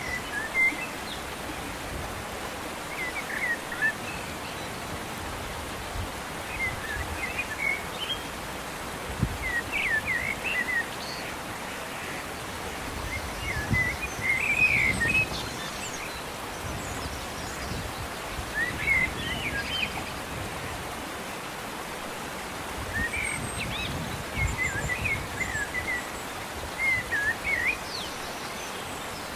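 Birds chirping in short high phrases every few seconds over a steady outdoor hiss.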